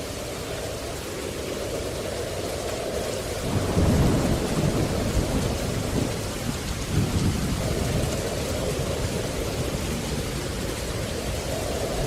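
Steady rain with a low rumble of thunder that swells about three and a half seconds in, surges again about seven seconds in, then slowly fades.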